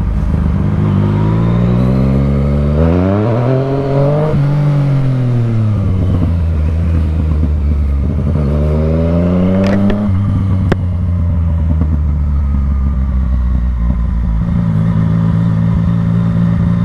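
Yamaha motorcycle engine running while riding, with the throttle opened twice: the pitch rises sharply about three seconds in and again around nine seconds, then falls back. It settles into a steady cruise, with a couple of sharp clicks around ten seconds in.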